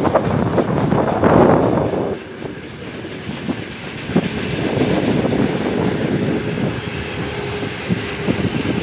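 Freight train hauled by a 3ES5K 'Ermak' electric locomotive rolling past, its wheels clicking over the rail joints. Wind buffets the microphone loudly for the first two seconds.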